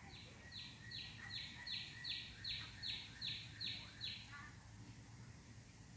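A bird calling a run of about eleven harsh, buzzy notes, two or three a second, louder in the middle of the run, for about four seconds.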